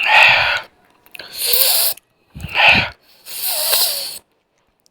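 Four loud, breathy bursts about a second apart from a person close to the microphone, like heavy exhalations or wheezy breaths.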